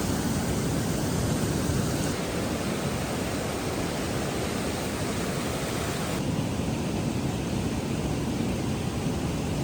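Storm wind blowing on the microphone as a loud, steady rushing hiss, with a low rumble of gusts under it.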